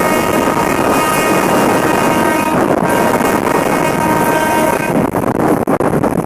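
A moving train heard on board: loud running rumble and wind noise, with a steady high tone of several pitches over it that breaks off briefly about halfway and stops about five seconds in.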